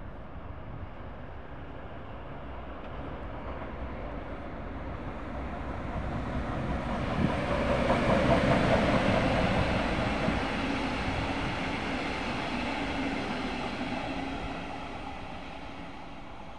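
A DB class 245 diesel locomotive hauling double-deck regional coaches passes by. Its engine and rolling wheel noise build up, are loudest about eight seconds in, and fade away as the train leaves.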